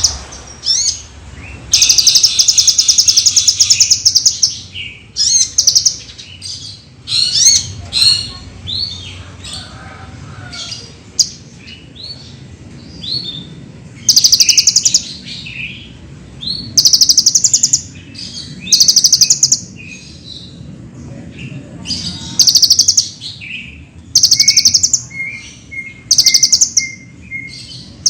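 Kolibri ninja sunbird singing a loud, high, rapid song: bursts of fast buzzy trills one to three seconds long, alternating with quick chirps and down-slurred notes.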